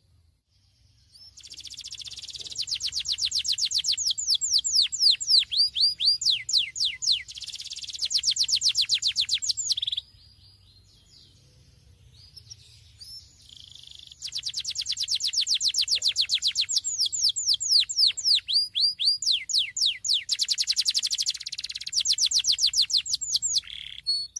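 Domestic canary singing two long song phrases made of fast trills: rapid runs of whistled notes that sweep downward. The phrases are separated by a pause of about four seconds, about ten seconds in.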